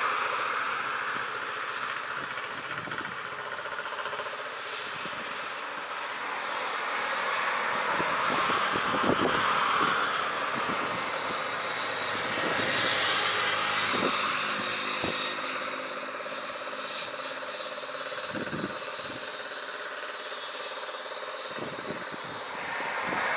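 Passenger train running: a steady rush of wheel and air noise that swells and fades every few seconds, with scattered sharp knocks.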